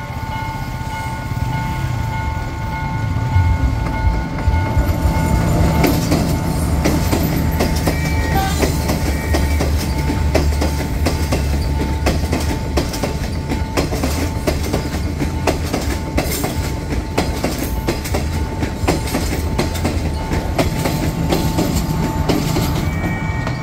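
A diesel passenger train passing a level crossing: a low rumble builds about three seconds in, then the wheels clack rapidly over the rail joints as the coaches go by. Under it, the crossing's warning bell keeps ringing in a steady tone.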